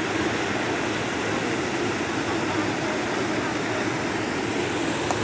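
Floodwater of a swollen river rushing, a steady even noise with no breaks.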